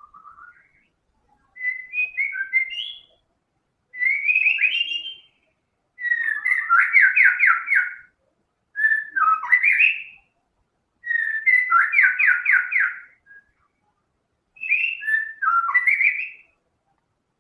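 White-rumped shama singing a string of about seven whistled song phrases, each one to two seconds long with short pauses between, some of them fast trills.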